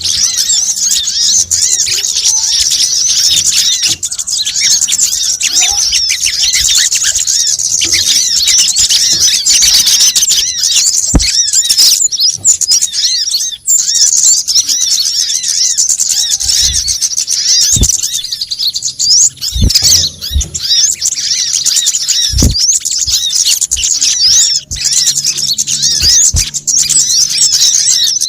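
Lure recording of small songbirds sold as sunbird (kolibri kelapa, sogon, kemade) calls: rapid, dense, high-pitched chirping and twittering, many calls overlapping with hardly a break. A few short low thumps come in the second half.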